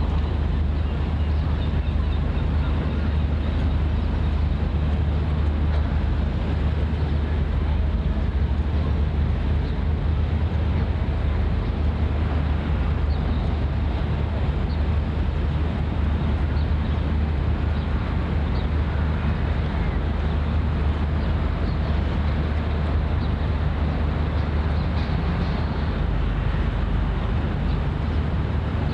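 Steady low engine drone of a ship, with a constant wash of background noise.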